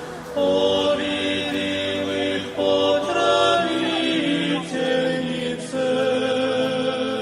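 A choir singing a slow chant in sustained chords, the harmony shifting every second or two.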